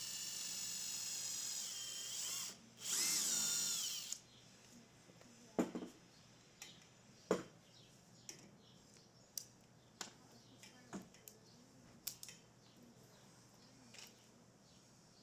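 Power drill running in two bursts, the first about two and a half seconds long and the second about a second and a half, its whine dropping in pitch as the second run winds down. Scattered sharp clicks and knocks follow.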